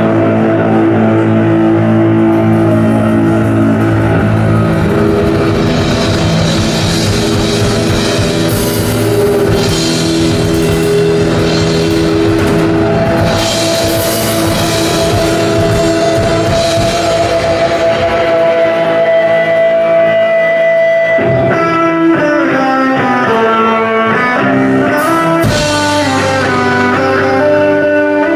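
Rock band playing live with electric guitar and drum kit, instrumental with no singing. A single guitar note is held for several seconds in the middle, followed by a run of quick stepping notes near the end.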